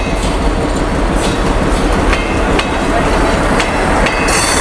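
Diesel-hauled passenger train rolling slowly into the station, its wheels clicking over rail joints at uneven intervals above a steady low diesel rumble. A loud hiss starts near the end.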